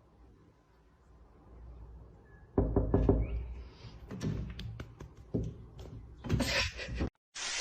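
Quiet at first, then, from about two and a half seconds in, a run of irregular knocks and thumps.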